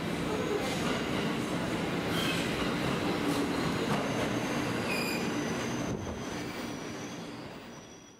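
Electric commuter train running into a station platform, a steady rumble of wheels on rail, with a thin high squeal from the wheels or brakes starting about five seconds in. The sound fades away near the end.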